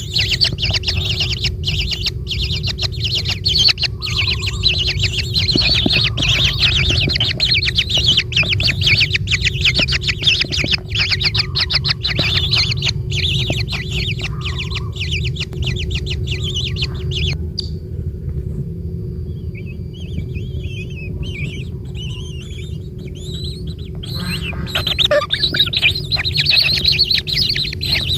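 Javan kingfisher giving a long, rapid, high-pitched chattering call. It breaks off about seventeen seconds in, with only scattered notes for several seconds, then resumes near the end, over a steady low rumble.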